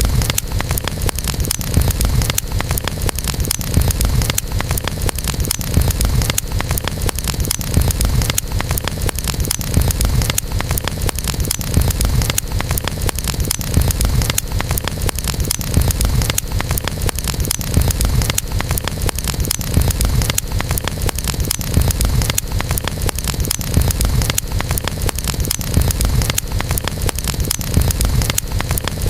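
Campfire burning with continuous dense crackling and popping over a steady low rumble.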